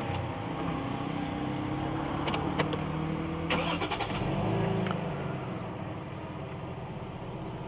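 1999 Toyota Crown's 3.0-litre twin-cam straight-six starting up, rising briefly about four to five seconds in, then settling to a quiet, smooth idle, with a few sharp clicks along the way.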